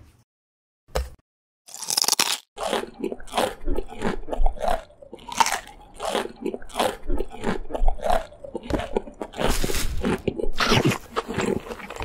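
Crisp biting and chewing of a raw green vegetable, crunch after crunch, after a short silence broken by a single click about a second in.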